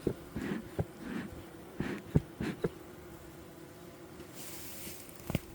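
Honeybees buzzing at a hive in a steady hum, with scattered sharp clicks and knocks, the loudest about two seconds in, and a stretch of hiss about four seconds in.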